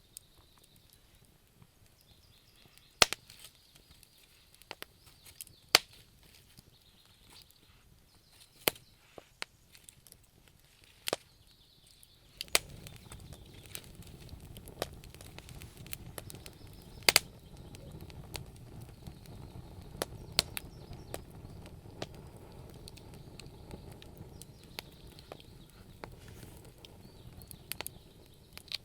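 Wood fire crackling, with sharp pops scattered irregularly through it. About twelve seconds in, a steady low noise of the burning fire comes in beneath the crackle.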